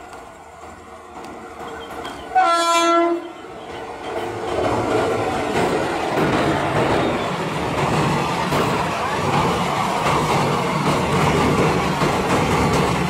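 WAP-4 electric locomotive sounding one short horn blast about two and a half seconds in. It then runs past at speed hauling its express coaches, with a loud rush of wheel-on-rail noise and clickety-clack that builds and holds.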